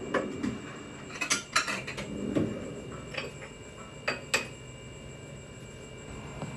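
Kitchenware being handled: a saucepan and utensils clinking and knocking against each other and the counter in a string of short, sharp clinks, the last two about four seconds in.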